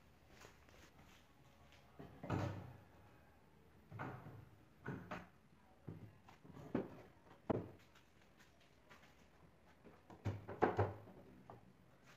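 Wooden boards knocking and thudding against each other at irregular intervals, about eight separate knocks with the loudest pair near the end.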